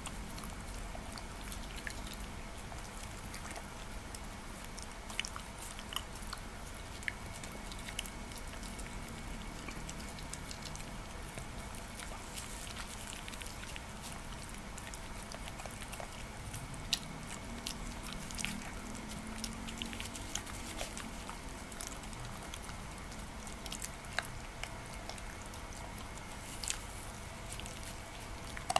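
Shiba Inu chewing and biting soft food, with scattered small clicks of teeth and mouth over a steady low background hum.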